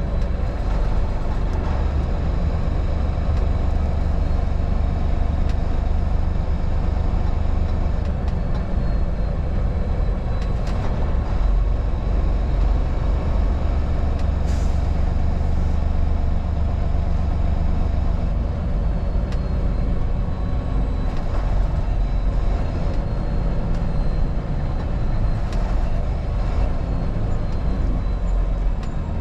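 A vehicle's engine and road noise while driving: a steady low rumble, with a few short sharp sounds, the clearest about halfway through.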